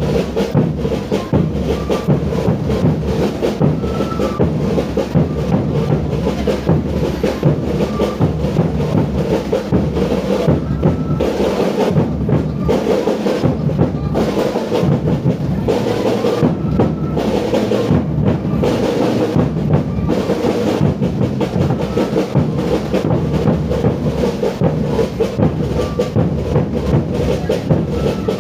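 Drums playing music, with bass drum and snare in a continuous, busy beat.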